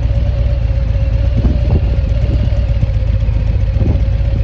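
Scania truck diesel engine idling steadily, a deep even rumble with a constant mid-pitched tone over it, heard through an exhaust fitted with a diffuser tip.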